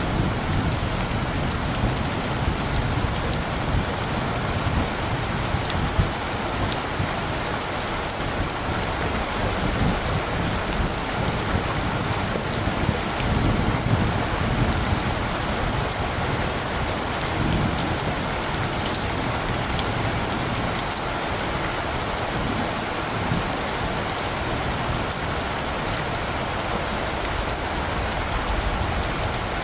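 Steady rain falling, with many close individual drops ticking against a surface. Under it, a low rumble of distant light thunder swells and fades a few times.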